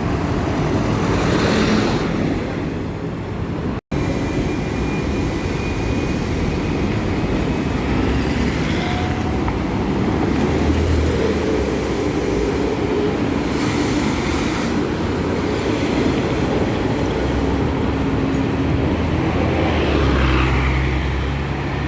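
Road traffic with heavy trucks driving past: diesel engines running and tyre noise, with a vehicle sweeping by about a second in and another near the end. The sound cuts out briefly about four seconds in.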